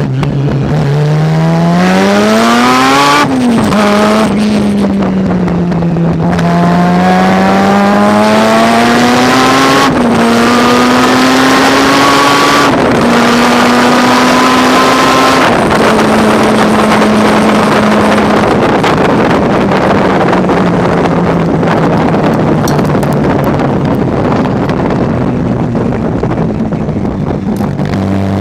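Mazda RX-7 rotary engine under hard acceleration, its pitch climbing steeply and dropping at gear changes about three, ten and thirteen seconds in. After that it holds a steady pitch, then eases slowly lower, with rising wind and road noise.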